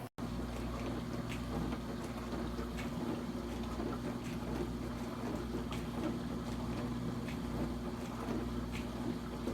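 COMFEE portable countertop dishwasher running: a steady pump hum under the wash of water, with occasional light ticks.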